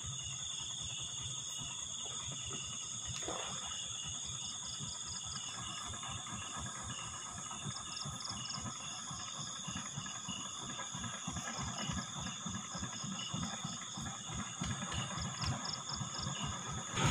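Night insects, crickets among them, trilling steadily with rows of evenly pulsed chirps, over a low, irregular rumble.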